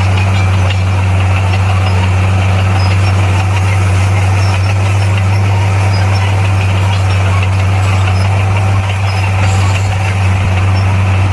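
Heavy diesel earthmoving machine engine running at a steady speed with a strong, even low drone.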